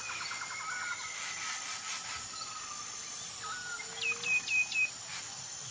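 Nature ambience of birds calling: a fast trill in the first second and thin calls gliding in pitch, over a steady high-pitched hum. About four seconds in comes a run of four quick chirps, each falling in pitch, the loudest moment.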